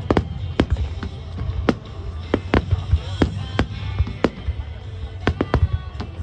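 Fireworks shells bursting in quick succession, two or three sharp bangs a second over a low rumble, with music playing alongside.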